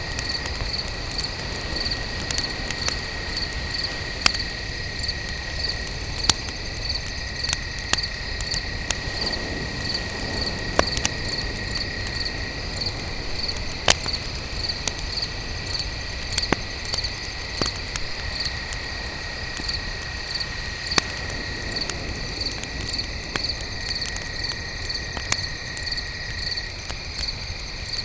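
Night crickets chirping steadily in an even, fast pulse, with a second insect trilling in a lower, continuous tone. Wood fire crackling over it, with sharp single pops every second or two.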